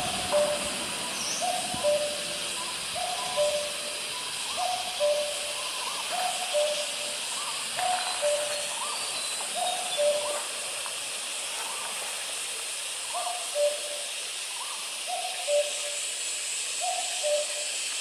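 Distant common cuckoo (Cuculus canorus) calling its two-note "cuck-oo", the second note a little lower, repeated about every one and a half seconds, with a short pause a little after halfway. A steady high hiss runs underneath.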